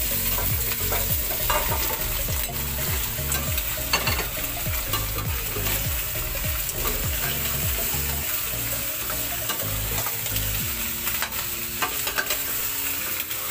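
Raw chicken feet sizzling in hot oil with sautéed garlic and onion in a stainless steel pot, stirred and turned with a spatula. A steady sizzle runs under repeated scrapes and knocks of the spatula against the pot and the feet.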